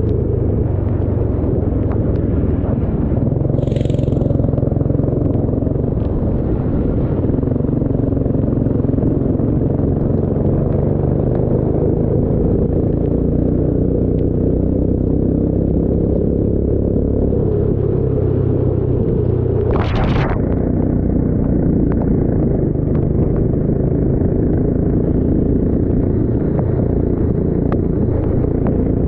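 Racing engine running steadily as a loud, low rumble that barely changes in pitch. Two short hisses cut in, about four seconds in and again about twenty seconds in.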